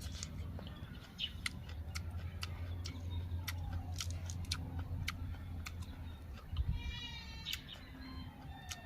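Crisp crunching of raw vegetables being chewed, a series of sharp clicks, over a steady low hum. A short bleating animal call comes about seven seconds in.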